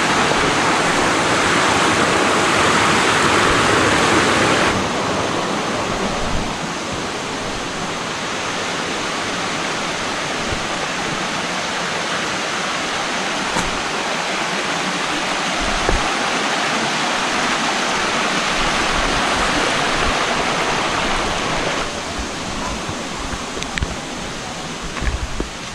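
Steady rush of a waterfall, falling water. Its level steps down a little about five seconds in and again near the end.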